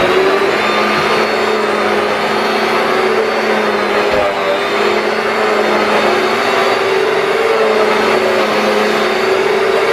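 Kenmore 81214 bagged canister vacuum cleaner running at a steady, loud pitch.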